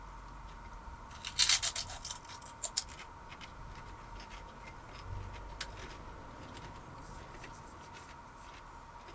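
Foil crisp packet crinkling as a hand rummages in it: a cluster of sharp crackles lasting about a second and a half, then a few fainter ones. A faint steady high hum runs underneath.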